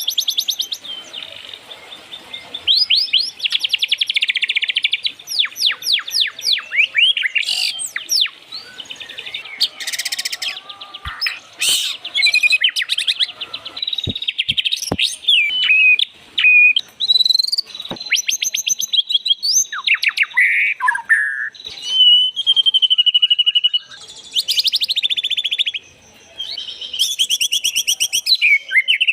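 White-rumped shama (murai batu) singing a long, varied song of rapid-fire repeated notes, chattering trills and clear whistled phrases, broken by short pauses. A few sharp clicks come around the middle.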